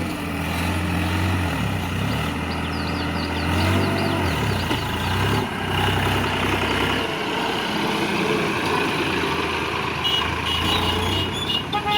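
Massey Ferguson 7250 DI tractor's diesel engine running under load while hauling a heavily laden trolley. Its note rises and falls over the first few seconds, then settles lower and steadier. A few short high beeps sound near the end.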